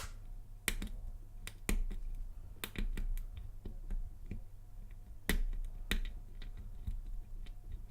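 Steel lock pick clicking against the pin tumblers inside a Lockwood laminated padlock held under tension: irregular light ticks with a handful of louder sharp clicks.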